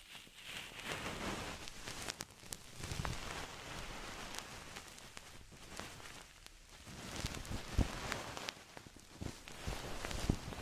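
Close-miked rustling and crackling with scattered sharp clicks and a few soft low thumps, as from objects handled for ASMR triggers.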